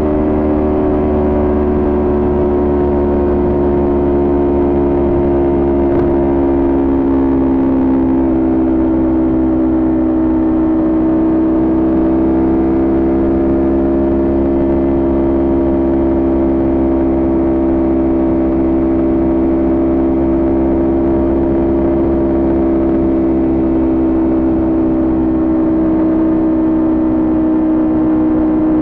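Kawasaki Ninja 400 parallel-twin engine cruising at steady throttle, its note holding a constant pitch that sags slightly over the first ten seconds and then levels off.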